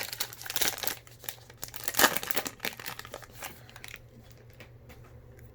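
A trading-card pack wrapper being torn open, crinkling and crackling, with a sharp rip about two seconds in. The crackling dies away after about four seconds.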